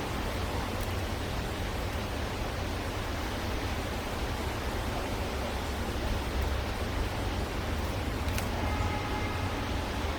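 Steady rushing outdoor background noise with a heavy low rumble. A single click and a brief, faint pitched call or tone come near the end.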